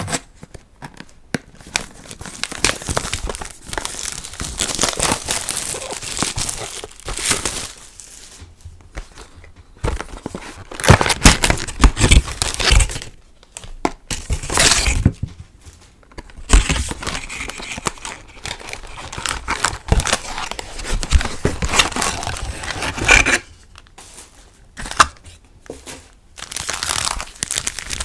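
Foil trading-card booster packs crinkling and being torn open, in uneven rustling bursts with short pauses; the loudest crinkling comes a little before the middle.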